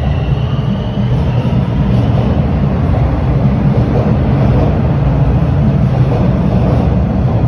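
A TTC Line 4 subway train running on the track, with a loud, steady rumble and rushing noise. A high-pitched whine fades out about a second in.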